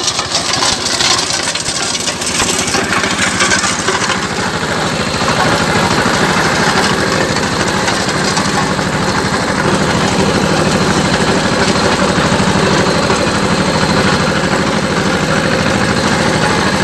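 Eicher 188 mini tractor's diesel engine running steadily, growing a little louder about five seconds in.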